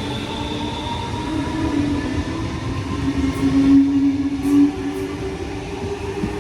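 Sydney Trains Tangara electric train running through the station: a steady rumble of wheels on rail with a motor hum that climbs slightly in pitch through the middle.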